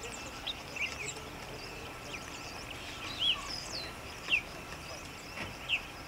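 Wild birds calling in woodland: scattered short chirps and quick down-slurred whistles from several birds, about one or two a second, with a few louder calls in the second half.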